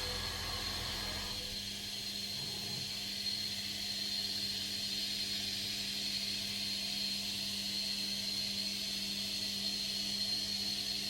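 CNC milling machine running steadily while cutting aluminium: a constant high whine over an even hiss, with a low steady hum underneath.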